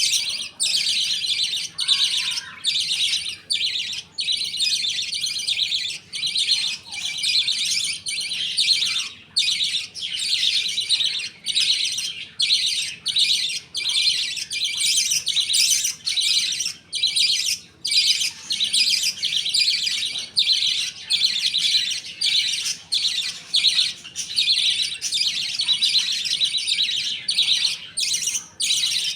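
A flock of budgerigars chattering and chirping continuously in a dense, high-pitched warble, broken only by brief pauses.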